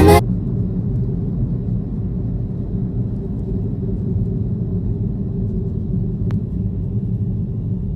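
Steady low rumble with a faint hum running through it, and a single faint click about six seconds in. Background music cuts off right at the start.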